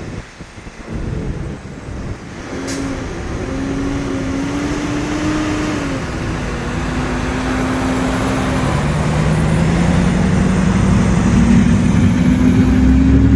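A road vehicle's engine running and speeding up, its pitch rising and the sound growing louder, with a short sharp click about three seconds in.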